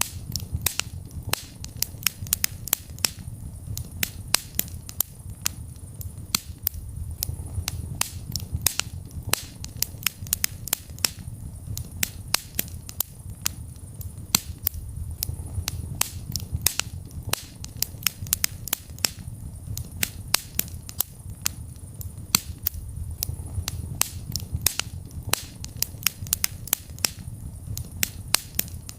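Wood fire burning in a fireplace: many sharp, irregular crackles and pops over a steady low rumble of the flames.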